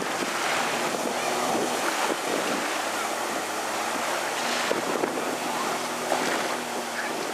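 Wind buffeting the microphone and water noise, with a 2019 Sea-Doo GTR 230 jet ski's engine running as a faint steady hum underneath.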